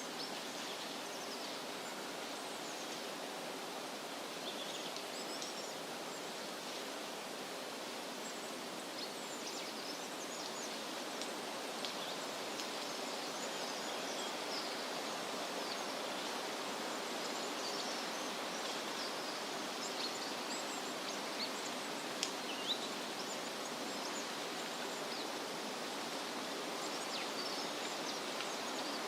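Wind rustling through leafy trees as a steady hiss, with many small birds chirping briefly and often throughout.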